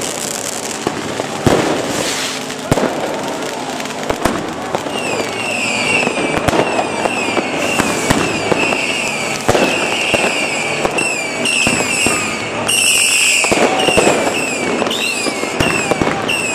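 Fireworks and firecrackers going off close by, with repeated sharp bangs over a constant crackling. From about a third of the way in, a string of short whistles that fall in pitch joins them, coming several a second.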